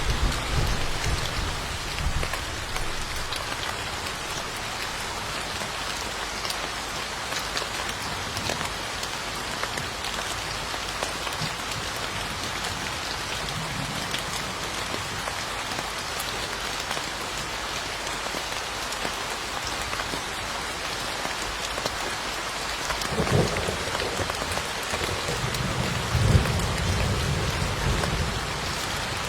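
Steady rain pattering down, with low rumbles of thunder near the start and again in the last few seconds.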